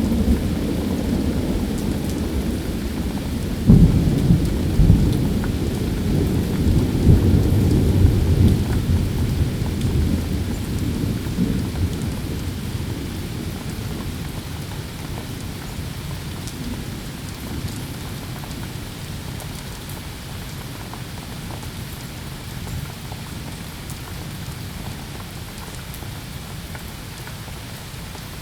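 Steady rain with thunder: a sudden clap about four seconds in, rumbling for several seconds and then dying away, leaving the rain.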